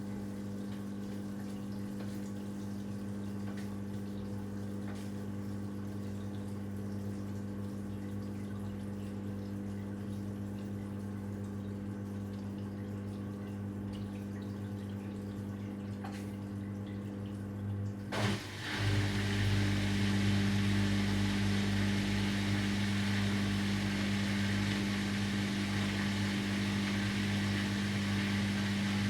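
Washing machine running with a steady motor hum and water sounds. About two-thirds of the way in, it dips briefly, then carries on louder and hissier.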